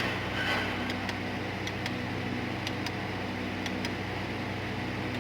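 Swapped-in 5.7 L V8 idling steadily, with a few light clicks over it.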